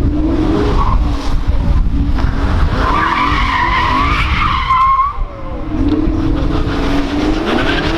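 Sports car engines accelerating, with a high wavering tyre squeal for about two seconds in the middle before an engine pulls again near the end.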